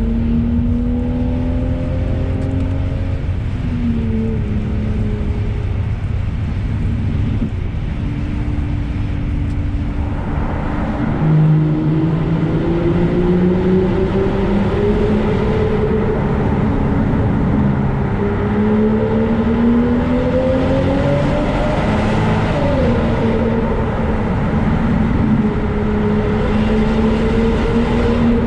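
Straight-piped V12 engine of a BMW 7 Series under way, its exhaust note rising and falling with the throttle. It pulls harder and louder about eleven seconds in, and the revs drop sharply a little past twenty seconds.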